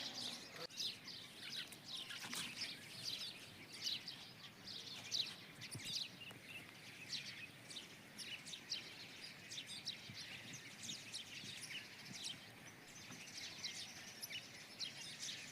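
Many small birds chirping and twittering together in a continuous chorus of short, high notes, over faint background noise.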